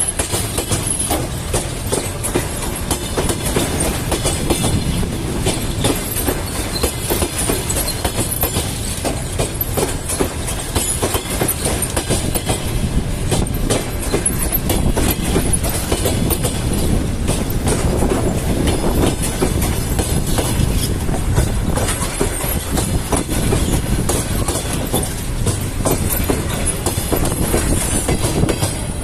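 Passenger train carriages rolling past as the train pulls out of the station, the wheels clicking over rail joints in a dense, continuous clatter.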